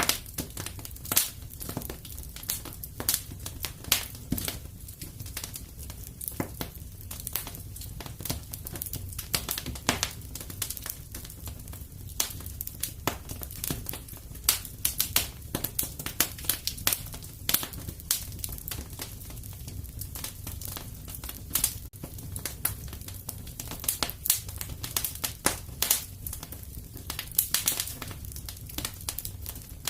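Wood fire crackling and popping in a fireplace, irregular sharp snaps over a low steady rumble of the flames.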